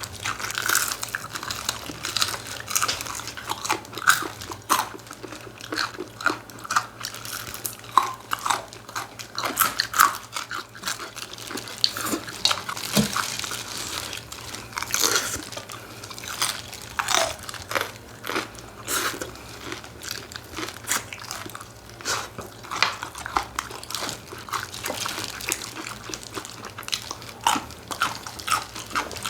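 Close-miked eating of chicken: repeated crunching, biting and chewing, many short crackles in quick succession.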